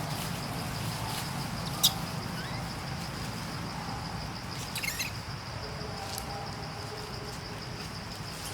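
Outdoor ambience: a steady high-pitched insect drone over a low rumble, with a sharp click about two seconds in and a short chirping call near the middle.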